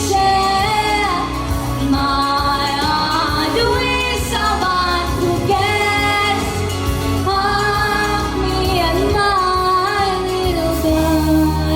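A female vocalist singing a melodic line of long held notes that slide between pitches, over instrumental accompaniment with a steady bass.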